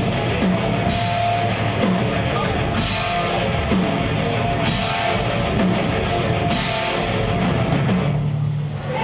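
Live death metal band playing: distorted electric guitars and a pounding drum kit, settling onto a held low note near the end.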